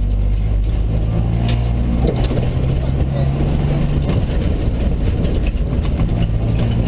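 Mitsubishi Colt rally car's engine running hard, heard from inside the cabin, its note shifting in pitch every couple of seconds as the car drives the stage. A few sharp ticks sound over it.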